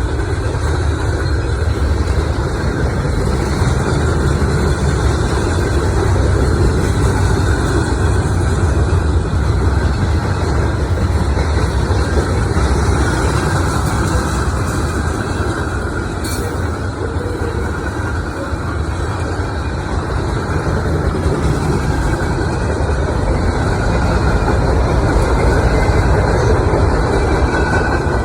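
Heavy engines running with a steady, loud low rumble that swells and eases a little now and then.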